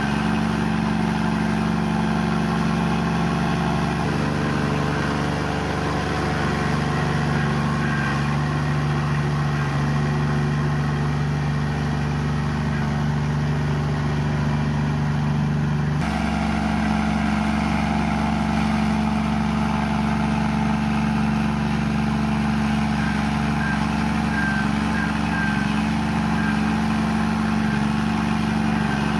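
Komatsu bulldozer's diesel engine running steadily while the dozer pushes mud. Its note changes abruptly about halfway through.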